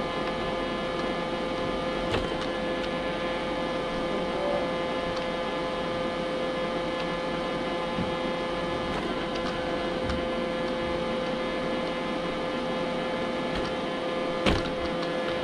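Robot vacuum cleaner running with a steady motor whine, broken by two short knocks: a light one about two seconds in and a louder one near the end.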